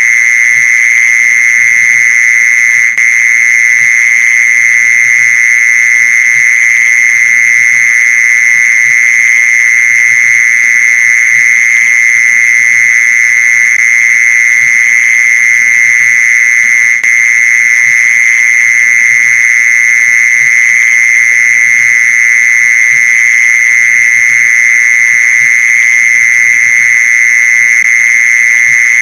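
Mole cricket call: a loud, steady, unbroken high trill, the kind of song used to lure mole crickets. It drops out for an instant twice, about 3 and 17 seconds in.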